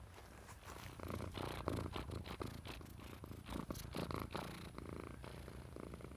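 Tabby cat purring steadily, close up, with a run of rustling, scuffing noises over the purr.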